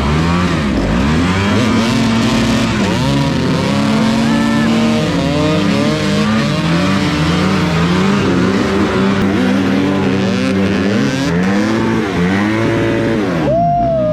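Dirt bike engine revving up and down over and over as it rides, with a short sharp rev near the end.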